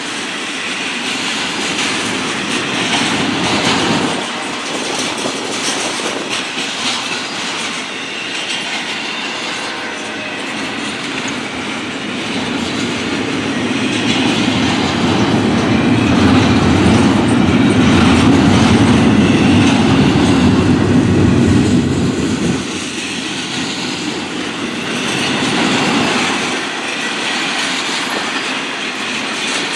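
A train passing close by, wheels running over the rails. A deep rumble builds and is loudest past the middle, then drops off abruptly about three-quarters of the way through, leaving the lighter rolling noise of the cars.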